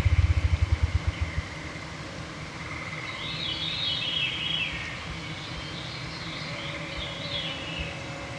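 Songbirds singing in the boreal evening chorus, with clear phrases about three and six seconds in over a faint steady high trill. A fast, deep throbbing pulse of about eight beats a second fades out about a second and a half in, and a thin mosquito whine comes in near the end.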